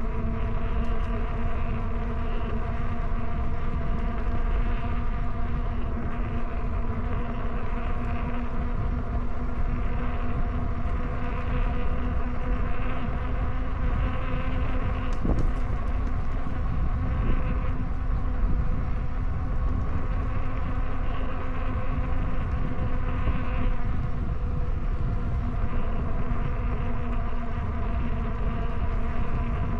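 Rad Power e-bike's hub motor whining at a steady pitch while riding, over a constant rumble of wind on the microphone.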